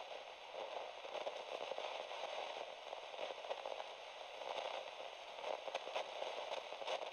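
Faint, steady crackling hiss, like static, with many small irregular crackles.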